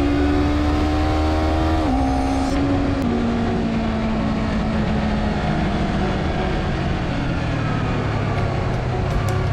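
Honda CBR250RR parallel-twin engine running through an Akrapovic slip-on exhaust. Its note climbs slowly, drops sharply twice in the first three seconds, then falls away gradually.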